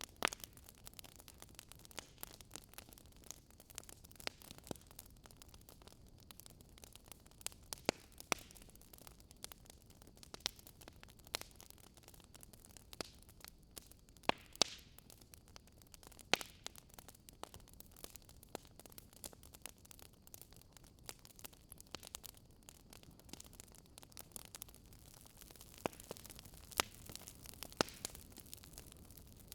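Wood fire crackling in a fireplace: irregular sharp pops and snaps over a faint, steady low rumble of the flames.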